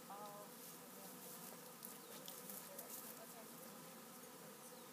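Faint, steady buzzing hum of honeybees just installed in a new hive, still unsettled after the installation.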